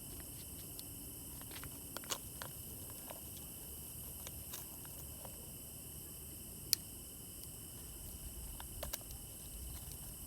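Steady high-pitched insect chorus of crickets, with scattered single sharp clicks, the loudest near the middle.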